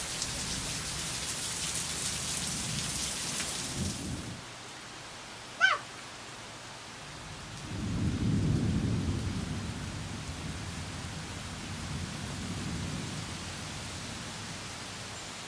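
Heavy rain hissing steadily, cut off abruptly about four seconds in. A brief high-pitched chirp follows, and then thunder rumbles low, loudest around eight seconds in and swelling again more faintly a few seconds later.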